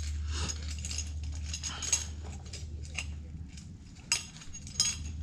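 Light metallic clinks and taps of small metal parts being handled. The sharpest click comes about 2 s in and two more near the end, over a steady low hum.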